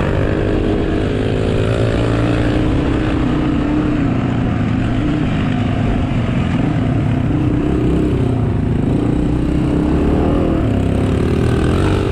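Small pit bike engine running, its pitch rising and falling with the throttle.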